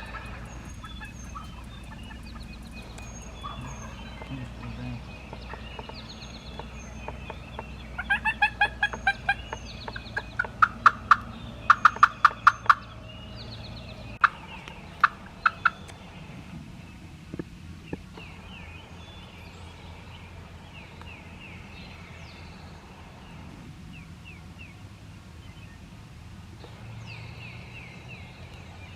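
Turkey calling: two bursts of sharp, quickly repeated yelp-like notes about eight and fourteen seconds in. Songbirds chirp faintly throughout.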